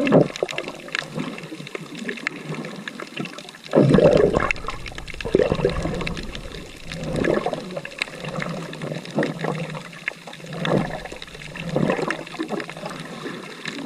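Sea water sloshing and gurgling close to the microphone in irregular surges every second or two.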